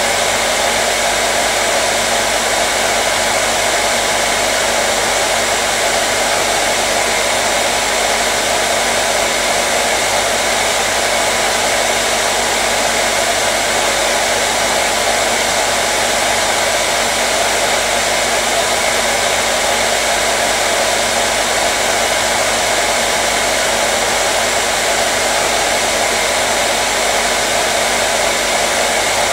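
Electric hair dryer running steadily on one setting, a loud, even blowing hiss with a faint steady motor hum under it.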